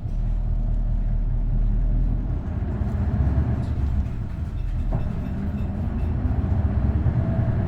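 Isuzu Erga bus's V8 diesel engine and drivetrain running, a steady low rumble heard inside the passenger cabin. The engine note shifts about two and a half seconds in.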